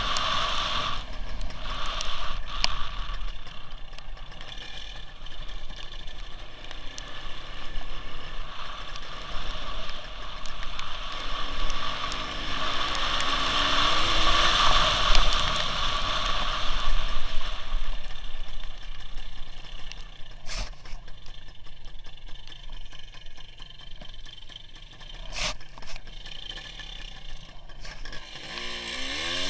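Onboard sound of a WSK 175 single-cylinder two-stroke motorcycle ridden in rain. Steady wind and road noise dominate, with the engine's pitch rising and falling faintly underneath. There are two sharp knocks, and the revs climb near the end.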